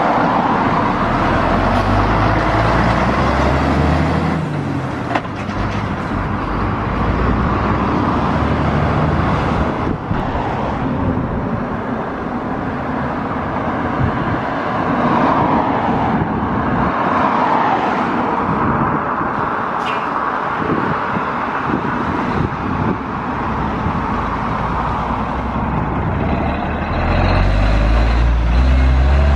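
Volvo lorry's diesel engine pulling away, its revs rising in the first few seconds, then a steady running rumble. Near the end a heavy engine comes in close and loud.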